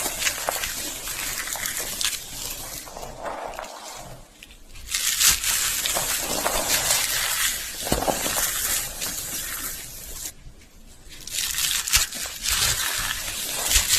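Slate pencils being crunched, a dense crackling of many small snaps, with two short pauses about four and a half and ten and a half seconds in.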